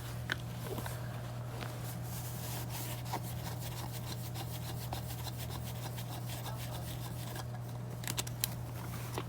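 Rubbing, scraping and light clicking of hands working a drysuit inflator valve and the suit's fabric, with a few sharper ticks about eight seconds in, over a steady low hum.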